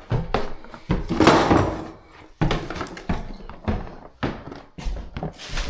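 Irregular knocks and thuds, one or two a second, with a brief rushing hiss about a second in.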